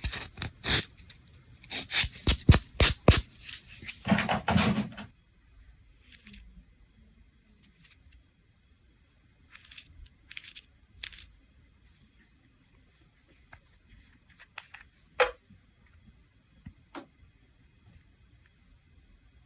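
Close-up small handling sounds of manicure work: a quick run of sharp clicks and scrapes, then a short scraping or tearing sound about four seconds in. After that come only occasional light taps and clicks.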